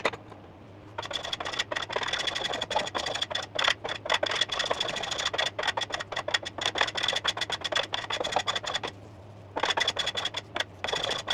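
Hand plane cutting shavings off a snooker cue's wooden butt, rounding a newly fitted splice: a long run of quick rasping cuts with a high ringing note over them, a brief pause about nine seconds in, then another run of cuts.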